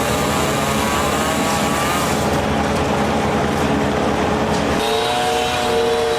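A motor running steadily, with its pitch shifting about five seconds in.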